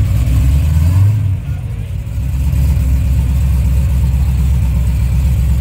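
Chevy Caprice's engine running at idle, a short rev about a second in, then a steady low rumble.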